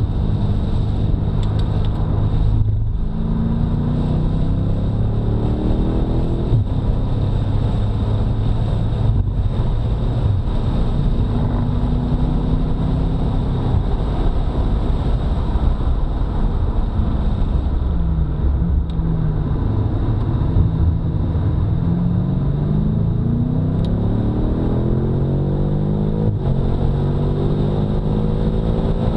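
2018 BMW F90 M5's twin-turbo V8 running hard on track: its pitch climbs for a few seconds to a break, holds steady, dips briefly a little past the middle, then climbs steadily through the last third under acceleration.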